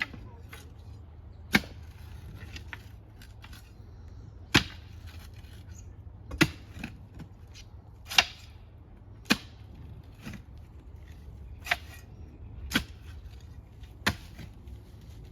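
Manual post-hole digging: a hand tool strikes into a post hole about eight times, sharp hits spaced unevenly a second or two apart.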